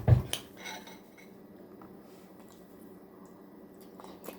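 Spoon clinking and knocking against a soup bowl a few times in the first second, then quiet, with one faint click near the end.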